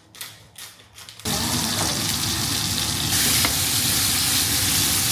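Steak sizzling in a hot frying pan: a loud, steady sizzle that starts abruptly about a second in, after a few light knocks.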